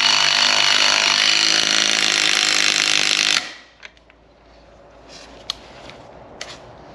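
Electric angle grinder running steadily at full speed on steel with a high whine, then switched off about three and a half seconds in and spinning down. A few light metallic clicks follow.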